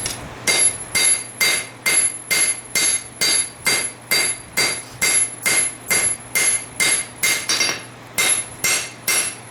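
Steady, even hammer blows on hot steel at the anvil, about two a second, each blow leaving a short metallic ring, as a knife blade forged from a farrier rasp is drawn out. A steady low hum runs underneath.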